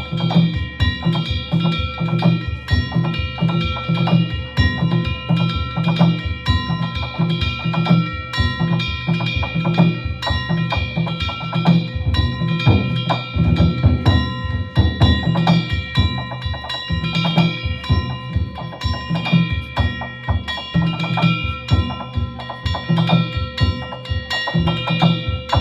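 Danjiri festival ohayashi: taiko drums beaten in a fast, driving rhythm together with ringing hand-held metal gongs (kane).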